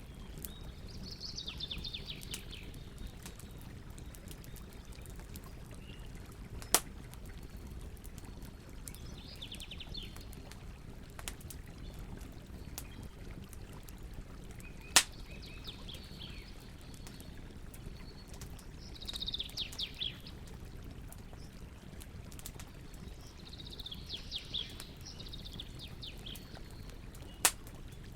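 Campfire burning with a steady low hiss and three sharp crackling pops, while a songbird sings short trilled phrases every few seconds.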